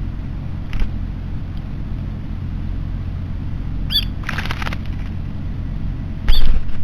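Wild bird calls: a short sharp call about four seconds in, followed at once by a brief rapid rattle, and a louder call about six seconds in, over a steady low rumble.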